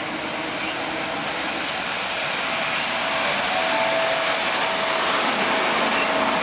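Heritage single-deck red electric suburban train coming into the platform, its wheels on the rails making a steady rushing noise that grows a little louder. A steady tone joins about halfway through.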